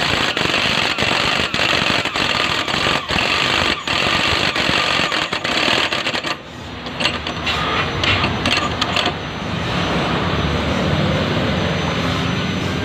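Electric jigsaw cutting plywood, running steadily. Just after halfway it drops briefly, then goes on in uneven stop-start bursts and settles into a steadier, lower running sound near the end.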